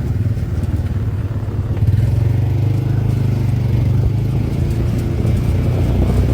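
UTV engine running steadily while driving, a low drone that gets a little louder about two seconds in.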